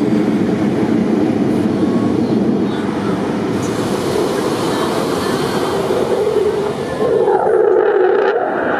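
Aircraft at an airshow, a loud steady engine roar; a higher hiss joins about three and a half seconds in, and the sound changes near the end.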